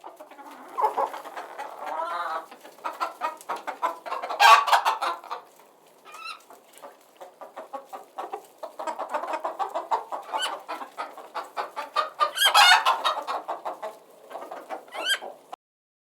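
Chickens clucking, a run of short repeated calls, with louder cries about four and a half seconds in and again a little past twelve seconds.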